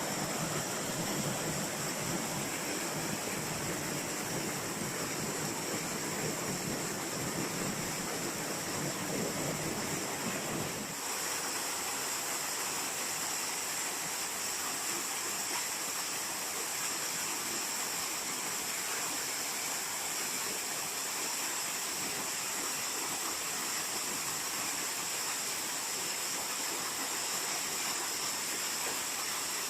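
Waterfall rushing steadily. About eleven seconds in, the deeper rumble drops away abruptly and a higher, hissing rush is left.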